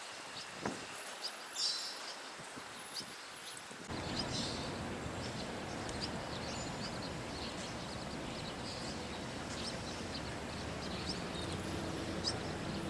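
Outdoor ambience: scattered short, high bird chirps over a steady rushing background noise that sets in suddenly about four seconds in.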